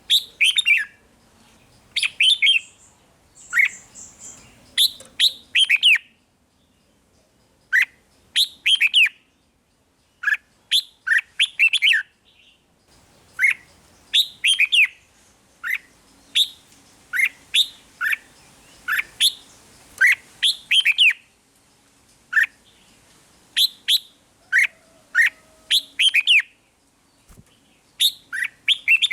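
Red-whiskered bulbul singing: short phrases of loud, clear whistled notes that glide in pitch, repeated every second or two with brief pauses between them.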